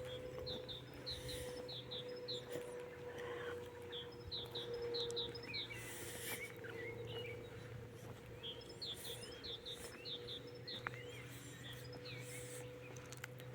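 Songbirds singing: one bird repeats a quick phrase of five or six short high notes about four times, with other chirps between. A steady low hum runs underneath, and there is a brief rush of noise about halfway through.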